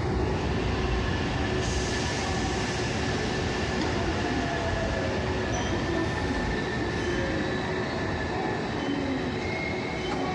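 Hankyu electric train pulling slowly into the platform, a steady rumble of wheels on rail with thin, wavering wheel squeal.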